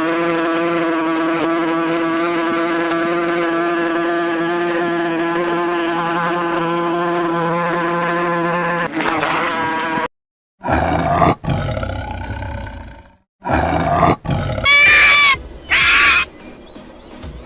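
Animal calls: one long call held at a steady pitch for about nine seconds, then, after a short gap, a string of short rough calls and pitched cries that rise and fall.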